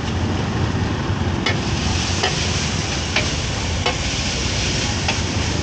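Food sizzling as it fries in a hot pan, with a hiss that grows brighter about a second and a half in. About five sharp clicks of a utensil against the pan.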